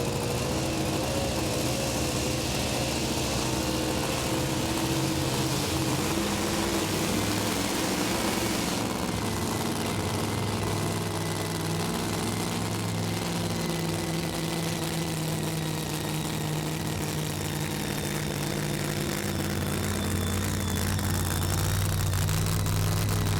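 Super modified two-wheel-drive pulling truck (a 1941 Dodge panel van) running its engine hard under load while pulling the weight-transfer sled. Its note wavers in pitch for the first few seconds, then holds steadier, and the hiss eases about nine seconds in.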